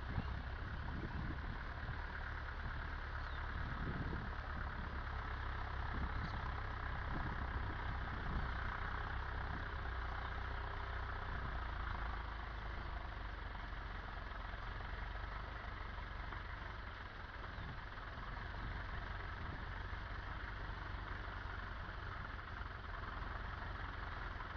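Massey Ferguson 275 tractor's diesel engine running steadily.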